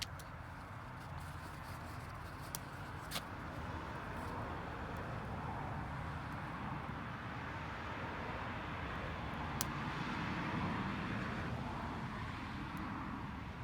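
Wood fire of damp firewood burning, giving a few sharp isolated pops, over a steady rushing noise that swells through the middle and eases off near the end.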